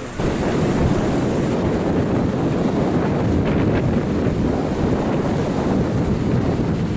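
Wind buffeting the microphone on a river cruise boat, a loud low rumble that sets in abruptly just after the start and holds steady.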